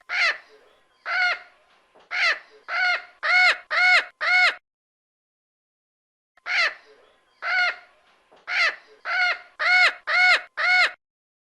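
Parrot squawking in two runs of about seven short calls each, with a pause of about two seconds between them; each call rises and falls in pitch.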